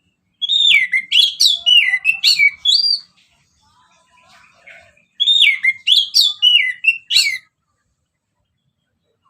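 Orange-headed thrush singing: two loud phrases of quick, slurred whistled notes that sweep up and down, mixed with sharp high notes, separated by a pause of about two seconds.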